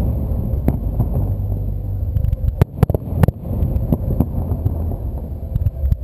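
Aerial firework shells bursting: a continuous deep rumble of overlapping booms, broken by sharp cracks about a second in, three close together near the middle, and one more after about four seconds.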